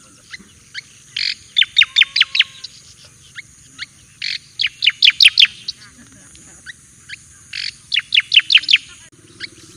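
Striated grassbird (cica koreng jawa) singing: three phrases about three seconds apart, each a short harsh note followed by a quick run of five or six sharp, falling whistles, over a steady high hiss.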